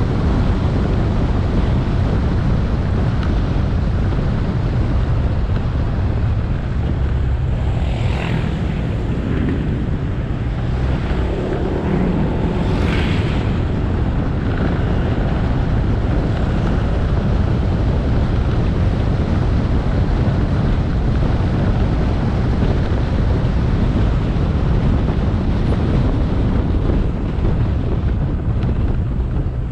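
Motorbike riding along at steady speed, with heavy wind rumble on the helmet or bike-mounted camera's microphone over the engine and road noise. Two short, brighter sounds stand out about eight and thirteen seconds in.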